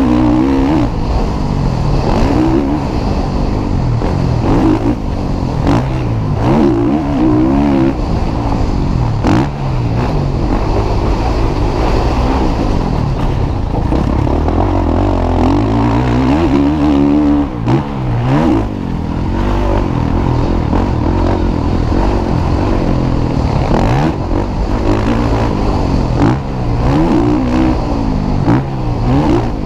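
Motocross bikes racing, their engines revving up and dropping off again and again as the riders work the throttle and shift through the gears.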